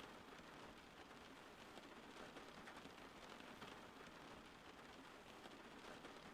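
Faint steady rainfall: an even hiss dotted with many small drop ticks.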